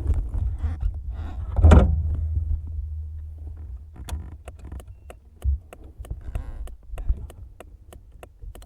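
Handling noises at a motorcycle before it is started: a heavy thunk about two seconds in, then an even ticking about three times a second over a low rumble.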